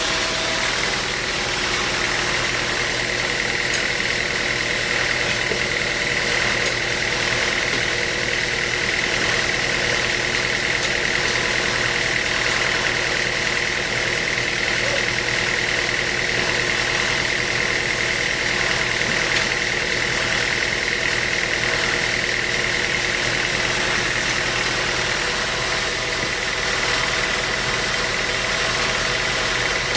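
Sawmill machinery running steadily, a constant mechanical drone with a steady high whine over it.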